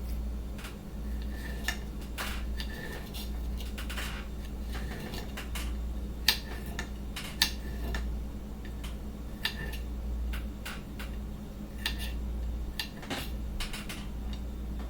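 Kitchen knife chopping vegetables on a cutting board: irregular, sharp knocks spaced unevenly, some louder than others, over a steady low hum.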